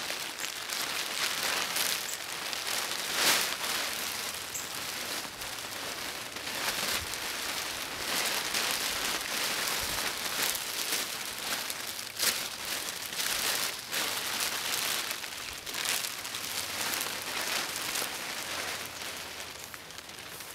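A homemade lightweight hammock rain tarp rustling and crinkling as it is unrolled and draped over the ridgeline, with sharp crackles throughout.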